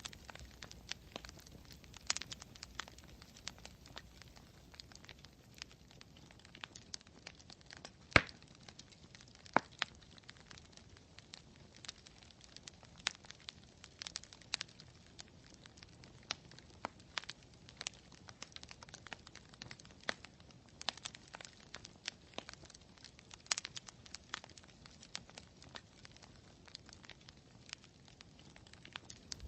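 Campfire crackling: wood popping and snapping in irregular sharp clicks over a faint hiss, with one louder pop about eight seconds in and another a second or so later.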